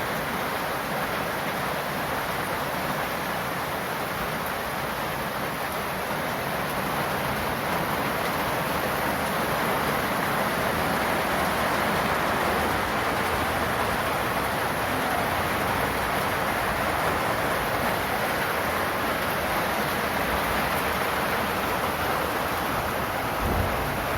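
Heavy summer downpour: a steady rush of rain falling and splashing on surfaces, with no let-up.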